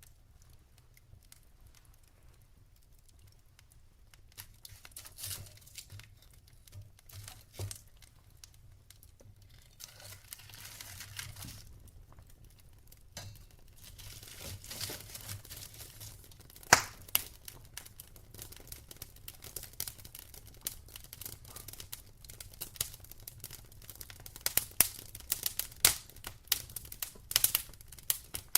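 Wood fire burning in a fireplace: logs crackling and popping. The pops are sparse at first and grow thicker and busier toward the end, with one sharp, loud pop a little past the middle and a soft hiss of burning now and then.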